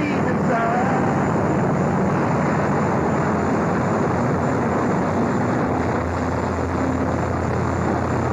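Helicopter running steadily close by: a continuous, loud rotor and engine noise with a low steady hum underneath.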